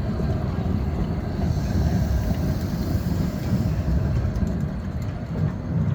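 Škoda 52T ForCity Alpha tram running along the track: a steady low rumble with a light hiss of wheel and rail noise that swells for a couple of seconds in the middle.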